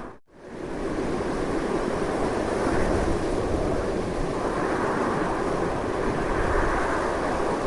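Strong, steady wind: a continuous rushing noise with a deep rumble beneath it and a slow rise and fall in strength. Just after the start it drops out almost to nothing for a moment, then fades back in.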